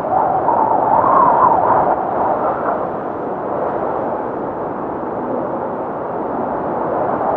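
Blizzard wind blowing hard in a steady rush, with a howl that wavers up and down in pitch over the first two seconds before settling back into the rush.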